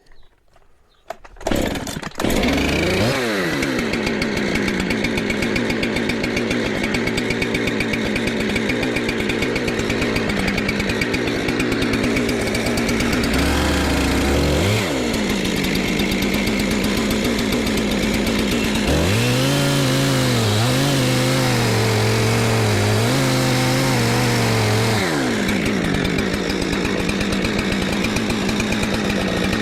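A gasoline engine starts about a second and a half in and runs steadily. Its pitch dips briefly twice and wavers for several seconds near the end, as it takes load.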